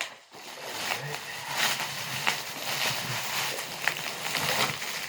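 Packing material rustling and crinkling as it is pulled off a package, with scattered sharp crackles.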